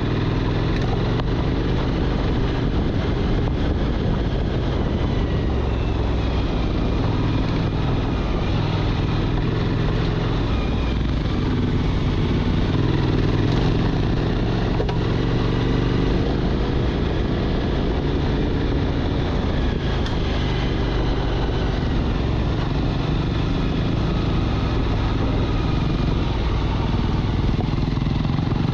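Motorcycle engine running steadily, at an even level with no large revs up or down.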